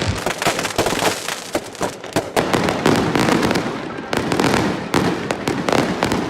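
Fireworks going off in rapid succession: many sharp bangs and crackles overlapping, several a second, with no break.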